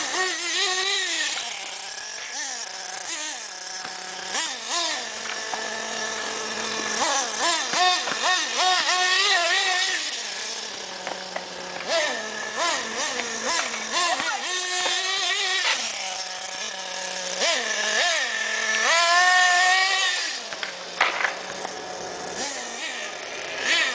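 The .21 nitro two-stroke engine of a 1/8-scale Madstorm RC car running. It revs up in repeated rising and falling bursts and drops back to a steady lower idle between them, with the loudest rev near the end.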